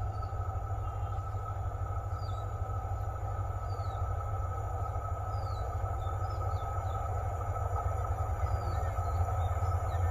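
Low, steady rumble of an approaching train, growing slowly louder toward the end. A bird chirps now and then over it.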